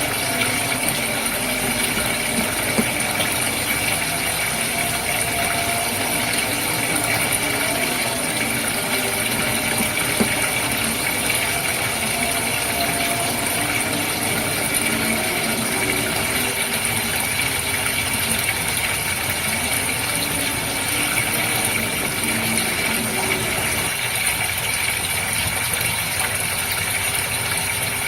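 Goldfish aquarium with its pump running steadily, a constant hum with a light rattle over water bubbling and trickling.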